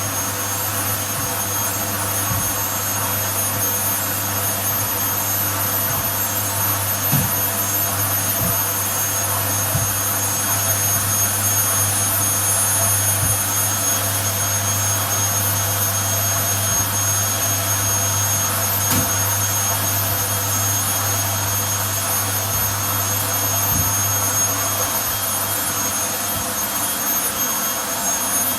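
Vacuum cleaner running steadily, with a few soft knocks now and then.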